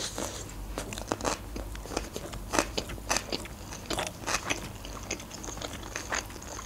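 Crunchy chewing of a crumb-coated, deep-fried sushi roll close to the microphone: irregular crisp crackles as the fried coating breaks, two or three a second.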